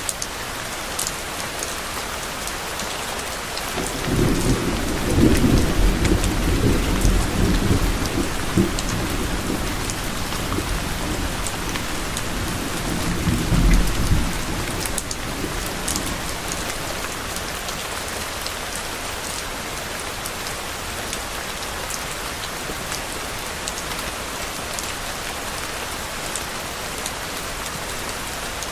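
Steady rain falling, with a low rumble of thunder that swells about four seconds in, rolls for roughly ten seconds and fades away.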